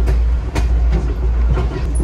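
A train rolling along jointed track, heard on board: a steady low rumble with irregular sharp clicks and knocks from the wheels and running gear.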